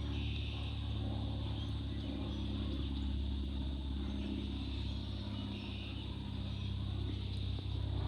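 Aircraft engines passing with a steady low drone and a hiss above it, holding even throughout.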